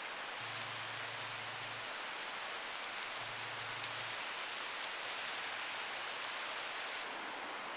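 Heavy rain falling in a steady hiss, with single drops ticking sharply close by in the middle stretch.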